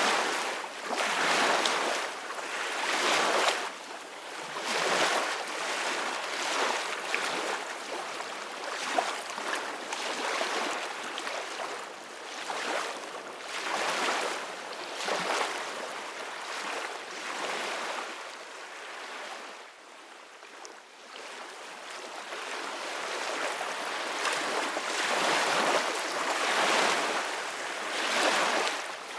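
Ocean waves breaking and washing in, a rushing hiss that swells and fades every couple of seconds. It dies down to a lull about two-thirds of the way through, then builds again.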